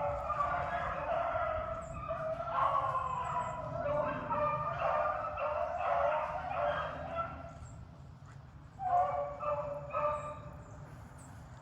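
A pack of rabbit hounds baying together in full cry, the many voices overlapping steadily, the sound of the dogs running a rabbit. The chorus drops away about eight seconds in, then two short loud bursts of baying follow.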